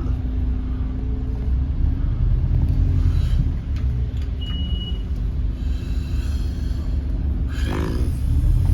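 Scania N270UD OmniCity double-decker bus heard from inside, its diesel engine and running gear giving a steady low rumble. A short high beep sounds about halfway through.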